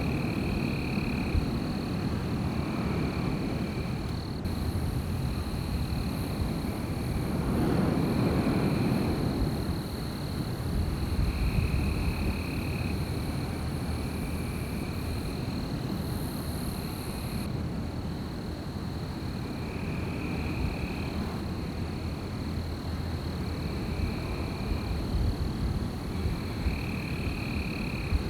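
Wind blowing in gusts, with one stronger gust about a third of the way in. Over it runs a steady high chirring, and high trilling calls of about a second each recur every few seconds.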